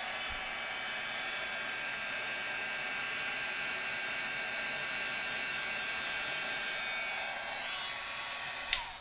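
Embossing heat gun running with a steady blowing whir and a faint whine, then switched off with a click near the end, its fan winding down.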